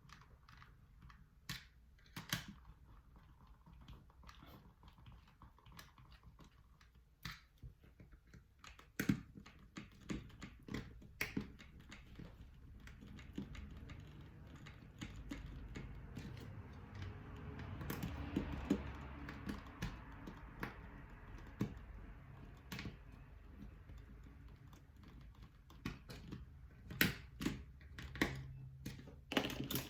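Irregular light clicks and taps of small parts and tools being handled during a drone repair, with a stretch of soft rustling in the middle.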